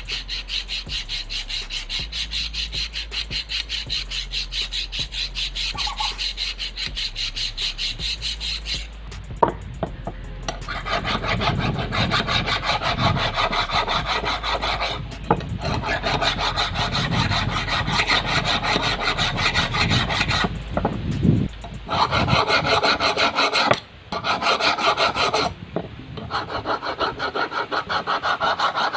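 Rapid back-and-forth abrasive strokes on the steel of a rusted pair of scissors, about four a second, as the rust is worked off. The strokes pause briefly about nine seconds in and resume lower and fuller, with two more short breaks near the end.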